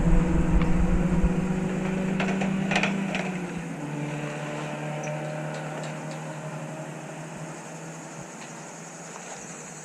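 A race car's engine passing at speed and fading away: the note drops in pitch about three and a half seconds in and grows steadily fainter.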